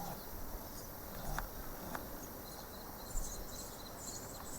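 Quiet outdoor garden ambience with faint, high-pitched short chirps repeating from about halfway through, and a few soft clicks.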